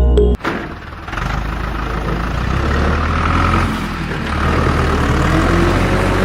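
A small motor running steadily with a low hum and a noisy mechanical whirr, starting just after a bit of background music cuts off.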